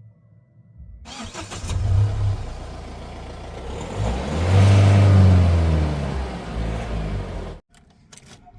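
Heavy diesel engine revving, starting about a second in, swelling to its loudest in the middle and stopping abruptly near the end.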